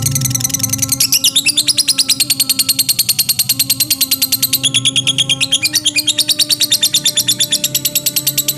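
Lovebird chattering: a long, unbroken run of rapid, high chirps, about ten a second.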